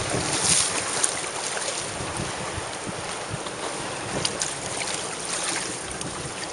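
Sea water splashing and washing, with wind buffeting the microphone; short splashes stand out about half a second in, at one second, and around four and five and a half seconds in.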